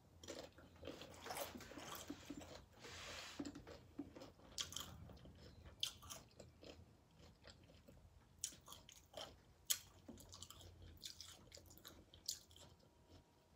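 A person chewing and biting loaded nachos close to the microphone, with irregular sharp crunches scattered through the chewing.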